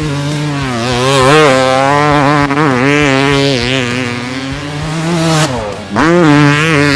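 Dirt bike engine running at high revs, its pitch wavering up and down, with a brief drop off the throttle about five and a half seconds in before it picks up again.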